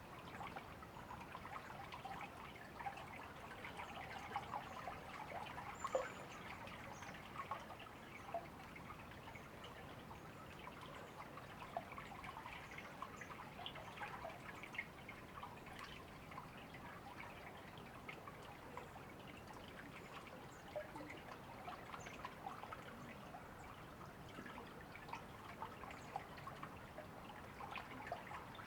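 River water trickling steadily, with many small splashes and drips.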